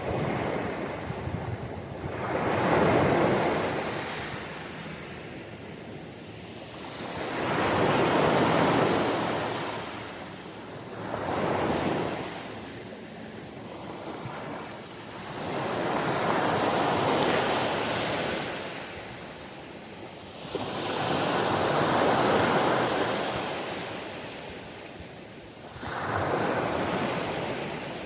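Ocean waves breaking and washing on a shore, each surge swelling and falling away every four to five seconds, six in all, with some wind noise on the microphone.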